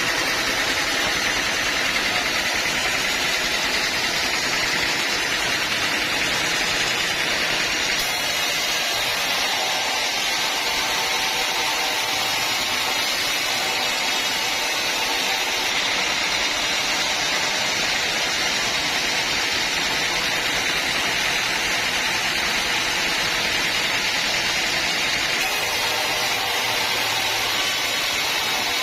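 Sawmill machinery running steadily, a continuous loud mechanical noise whose tone shifts abruptly a few times.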